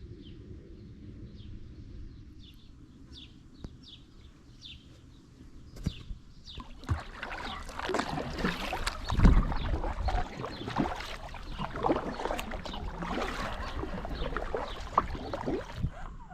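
Kayak paddle strokes splashing in the water, starting about six seconds in and continuing busily until they stop suddenly near the end, over a low wind rumble on the microphone. Before the splashing there are faint, short, high chirps.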